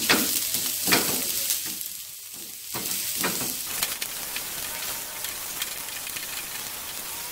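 Chopped shallots and garlic sizzling in hot oil in a nonstick frying pan, being sautéed until fragrant and lightly browned. A wooden spatula stirs them, scraping and knocking against the pan now and then.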